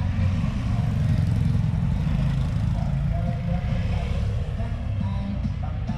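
Steady low rumble of motor traffic or a running vehicle, with faint voices.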